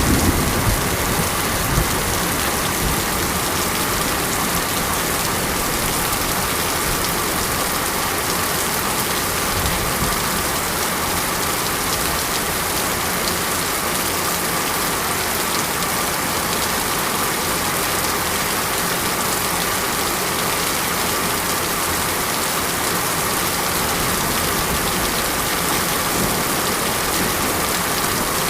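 Steady heavy rain falling, a dense even hiss. The tail of a low thunder rumble dies away in the first second.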